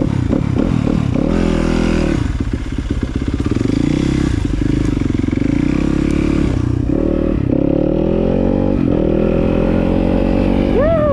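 Dirt bike engine under way, its pitch climbing and dropping several times as it accelerates and shifts, with a long steady climb in the second half.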